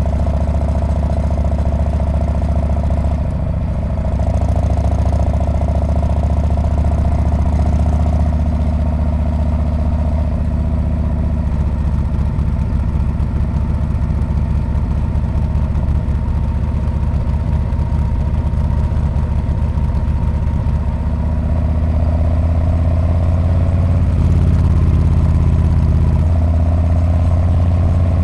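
Harley-Davidson Street Bob's V-twin engine and exhaust running under way. It dips briefly about three seconds in and grows louder in the last third.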